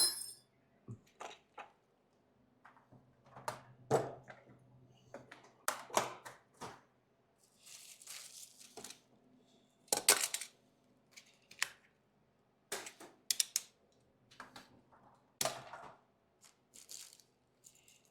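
Hand tools and small metal parts clinking and clattering as they are handled and put away: an irregular run of sharp clicks and knocks, with a couple of brief rustles. A faint steady low hum lies under the first half.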